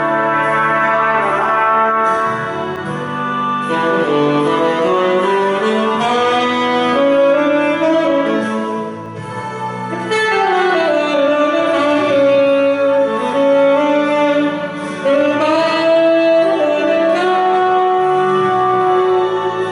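Instrumental music: a tenor saxophone plays the lead melody, sliding between notes in places, over a sustained accompaniment.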